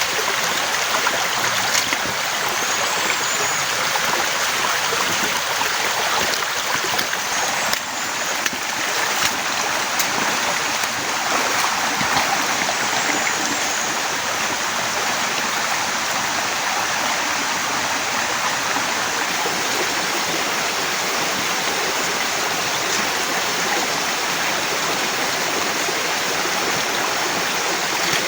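Heavy rain falling in a steady downpour, a dense even hiss of water.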